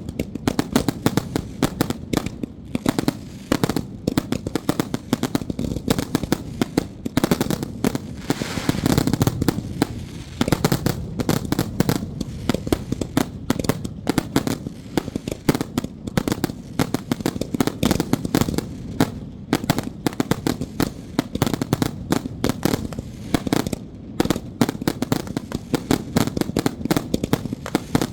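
Firecrackers going off in long rapid strings: a dense, unbroken crackle of bangs, some louder than others.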